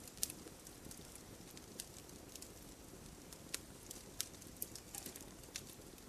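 Wood fire crackling: irregular sharp pops and snaps over a soft low hiss, the loudest pop just after the start.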